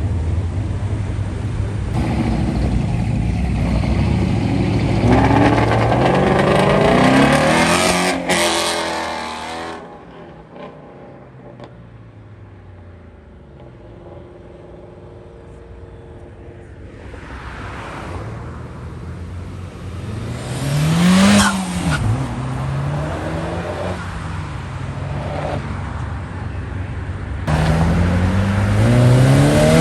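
Modified cars accelerating away one after another, engines revving with rising pitch. A loud car revs up over the first nine seconds, another passes about twenty seconds in with its pitch rising then falling, and a third starts revving hard near the end.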